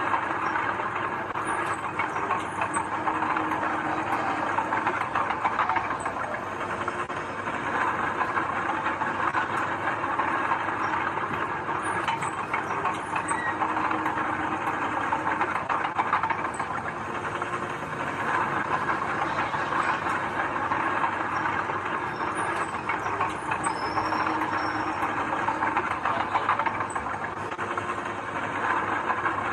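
Bulldozer at work: its diesel engine running steadily under a continuous rattle of small clanks, typical of steel crawler tracks.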